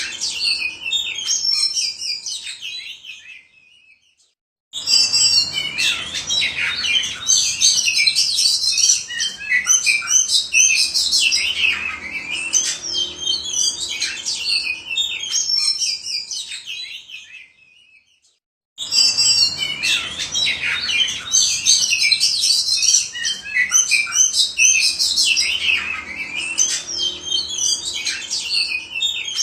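Oriental magpie-robin singing a loud, rich, varied song of quick whistles and chirps. Twice the song fades and cuts to silence for about half a second, then starts again at full strength.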